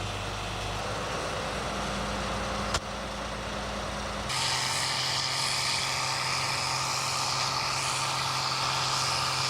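Tractor engines running steadily at idle, with a single click near the middle; about four seconds in the sound cuts abruptly to another steady engine drone, slightly higher, with more hiss.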